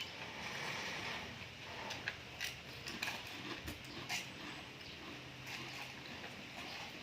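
Close-up eating sounds of sea-grape seaweed being chewed: wet chewing with sharp crunchy clicks, four of them clearly standing out in the middle of the stretch.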